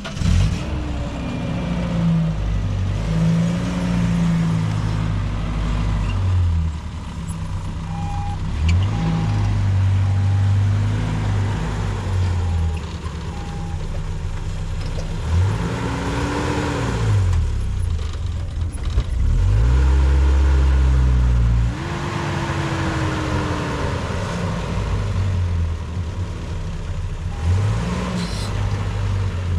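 A car engine running and revving up and down as the vehicle drives, its pitch rising and falling again and again. Short runs of evenly spaced beeps sound twice.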